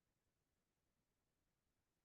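Near silence: a faint, steady noise floor.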